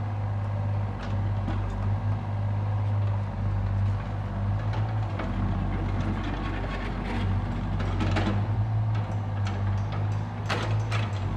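Excavator engine running steadily with a low hum, with scattered knocks and clanks, the loudest cluster near the end.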